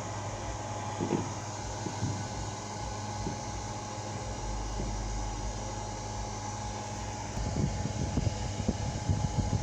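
A steady mechanical hum with an even rushing noise and a thin steady tone, with a few soft knocks about a second in and more irregular low thumps near the end.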